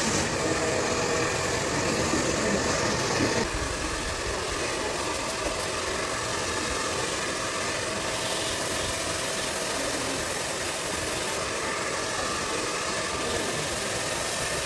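A small electric motor running steadily under a dense, even hiss, typical of a hair tool such as a blow-dryer or clippers; its lower part drops away about three and a half seconds in.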